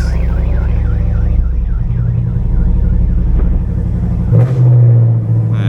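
Camaro's LS3 V8 running rough in gear with a misfire, its note uneven and swelling about four and a half seconds in. A warbling alarm-like tone fades out over the first few seconds.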